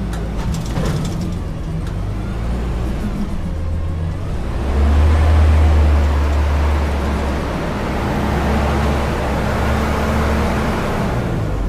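Front-load garbage truck's engine running, with a few knocks in the first second. It gets noticeably louder about four and a half seconds in and stays up, with a broad rushing noise over the engine.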